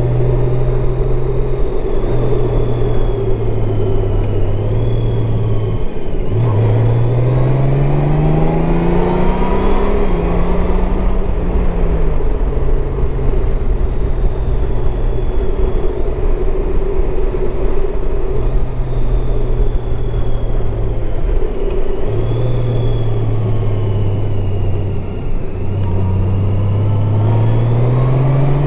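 Honda Gold Wing's flat-six engine running under way, with wind noise rushing past. The engine note climbs under acceleration about six seconds in, drops back a few seconds later, and climbs again near the end.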